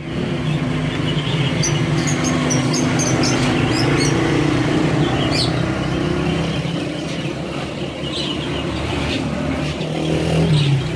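A vehicle engine running steadily, with high bird chirps over it between about one and a half and four seconds in.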